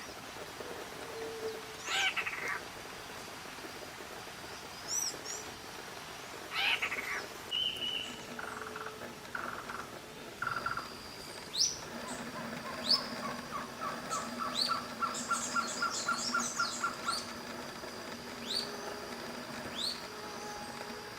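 Several forest birds calling and singing at once: two harsh calls early, then about halfway through a rapid run of short repeated notes, about three or four a second, among short high rising whistles and a thin steady high tone.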